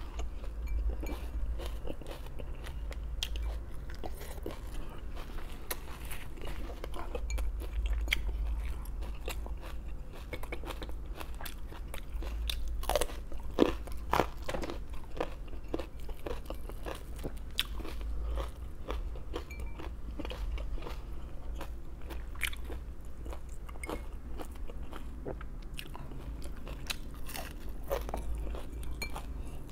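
Close-up crunching and chewing of raw vegetables, with a run of louder, crunchier bites about halfway through.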